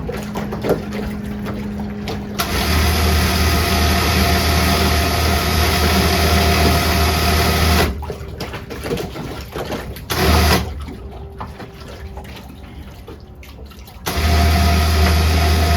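Electric motor running in stop-start bursts: a run of about five seconds, a half-second blip, then another run starting near the end, each with a steady low hum.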